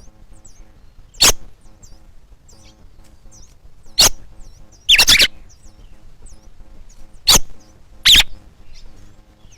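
Bird calls: many short, high, hooked chirps, broken by five loud, harsh calls, over faint background music. The harsh calls fit a parent bird scolding near its nest.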